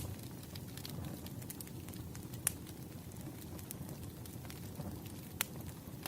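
Firewood burning: a steady low rumble of flames with scattered small crackles and two sharper pops, about two and a half seconds in and again near the end.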